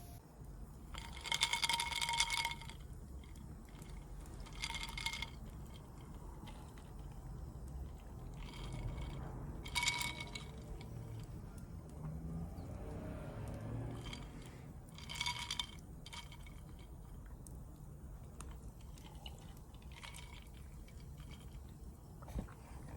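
Utensils striking or scraping camp cookware four times, each contact giving a short ringing tone, the first and longest lasting about a second.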